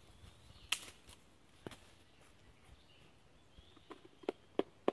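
Light wooden clicks and knocks from handling the cottonwood-bark quiver and its wooden bottom piece with a stick: a few scattered clicks, then short knocks about three a second near the end.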